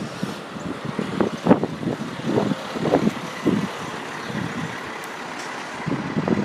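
Street traffic: a motor vehicle, likely a truck, passing on the road, heard as a steady rushing noise with some uneven swells.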